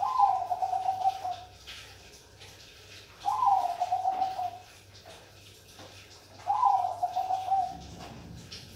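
Zebra dove (perkutut Bangkok) singing: three cooing phrases about three seconds apart. Each opens on a higher note, then drops into a rapid, trilled run of coos.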